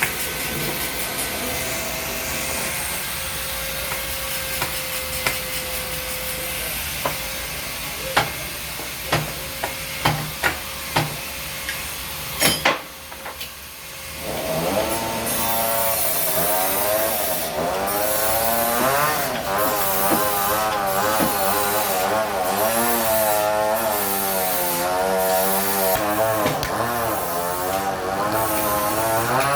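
Sawmill saw running and cutting through a large log. It starts with steady machine noise and a series of knocks, drops off briefly about halfway through, then comes back with a loud, wavering whine that rises and falls as the blade works through the wood.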